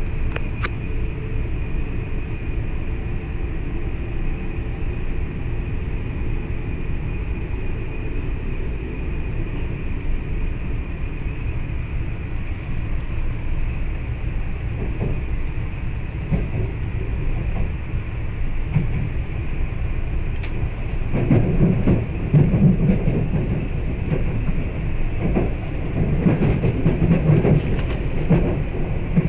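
Cabin sound of a JR East E4 series Max Shinkansen under way: a steady low rumble of the running train. It turns louder and rougher twice in the last third.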